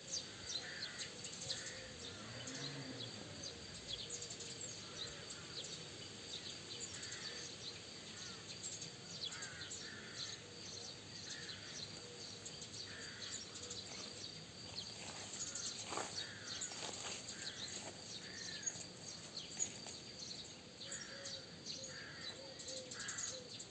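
Several birds calling: a steady scatter of short, high chirps, with a lower call recurring every second or two, over a faint even background hiss.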